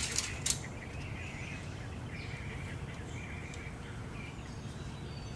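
Quiet outdoor background: scattered bird chirps over a steady low hum, with a few sharp clicks in the first half second.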